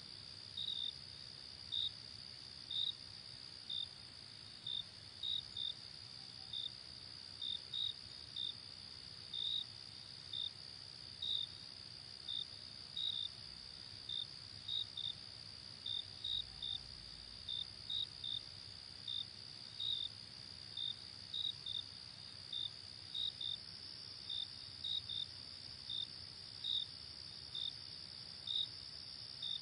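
Night crickets: a steady high-pitched trill, with short chirps over it at an irregular pace of one or two a second.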